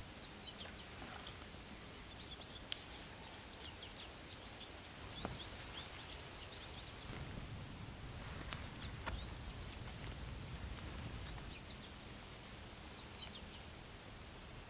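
Small woodland birds chirping in short repeated notes, with a few sharp clicks, the loudest about three seconds in, over a low rumble.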